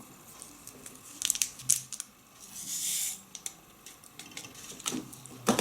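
Sugar being added to a glass: a few light clicks and taps, with a short dry, hissy rustle about two and a half seconds in, then more clicks near the end.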